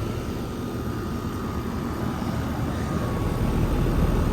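2014 American Standard central air conditioner condenser running, the steady hum of its outdoor fan and Alliance scroll compressor, growing steadily louder, with a faint steady high tone.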